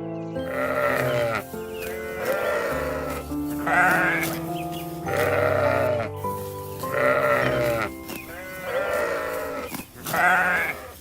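A series of bleats with a wavering, quavering pitch, one every second or two, over background music with held notes.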